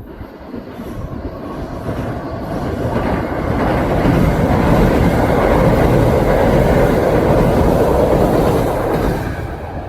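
Kintetsu electric train passing at speed, its wheels clacking over the rail joints. It swells over the first few seconds, holds loud, then fades near the end.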